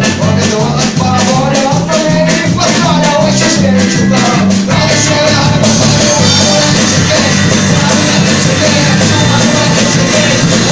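A rock band playing live. About halfway through, the sound grows fuller and brighter.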